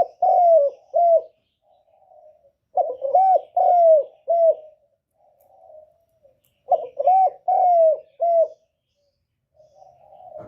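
Spotted dove cooing in repeated phrases, about every four seconds. Each phrase is a soft lead-in coo followed by three or four loud, arching coos. This is the 'cu gù' cooing that trappers use to provoke and draw in wild spotted doves.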